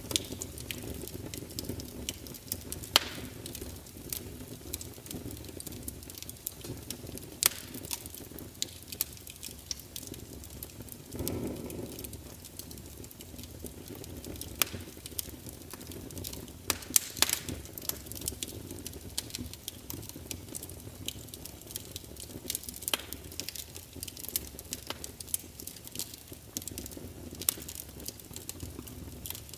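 Burning wood fire crackling: a steady low rumble of flames with irregular sharp pops and snaps, a few of them louder, and a brief swell of flame noise about eleven seconds in.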